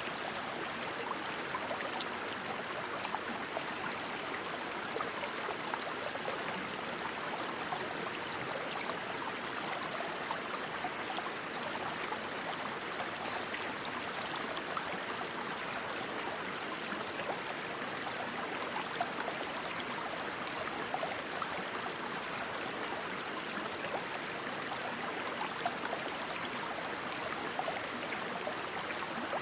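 Rushing stream water running steadily, with short high-pitched chirps repeating irregularly over it, sometimes in pairs and bunched together about halfway through.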